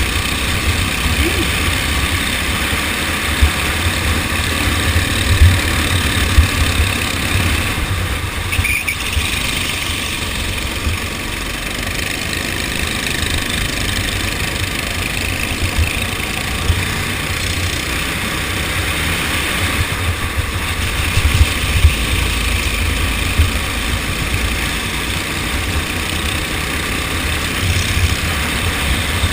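Go-kart engine running during a race, heard with a heavy low rumble and occasional sharp knocks, as of wind buffeting the microphone.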